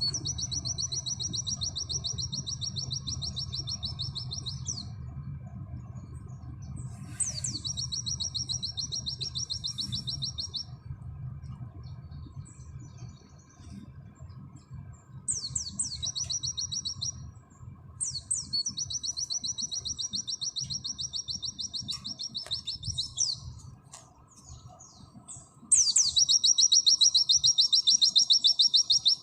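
Pleci (white-eye) singing its 'nembak' song: long, very fast high trills, each lasting about two to five seconds, five in all with short gaps between them. The last trill, near the end, is the loudest. A steady low hum runs underneath.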